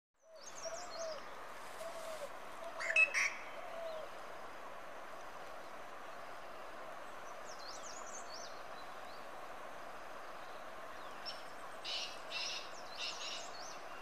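Wild birds calling: a low, short call repeated four times in the first few seconds, thin high chirps and whistles throughout, and brief clusters of louder chirps about three seconds in and again near the end.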